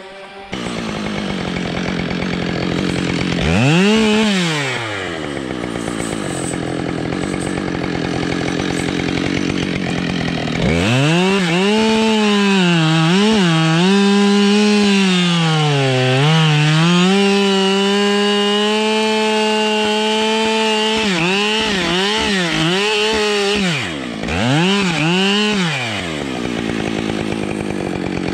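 Husqvarna 572 XPG two-stroke chainsaw running: a quick rev about four seconds in, then held at high revs for about ten seconds with dips in pitch, then several quick revs near the end.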